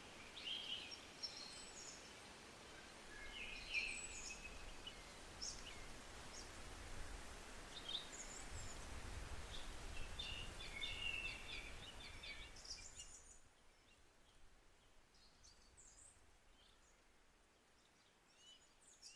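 Faint birds chirping in scattered short calls over a low background rumble; about two-thirds of the way through the rumble drops away and the chirps become sparser.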